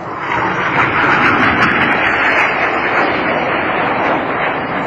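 Jet noise from a formation of BAE Hawk T1 jets flying past: a loud rush that swells within the first second, holds, and eases slightly near the end.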